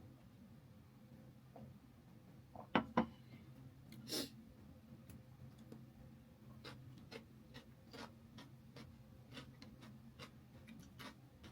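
Someone eating chicken leg pieces: soft chewing with small scattered mouth clicks, two sharper clicks about three seconds in and a short noisy burst about a second later, over a steady low hum.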